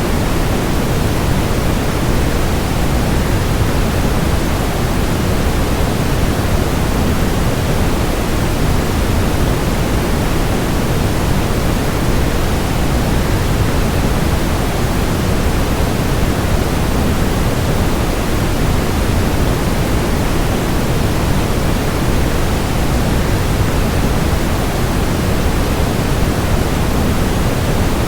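Steady rush of a waterfall blended with white noise: an even, unbroken hiss, heaviest in the low end.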